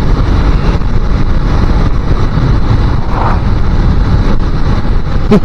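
Loud, steady wind noise on the microphone of a 250 cc motorcycle cruising at about 50 mph, with the bike's engine and road noise running underneath.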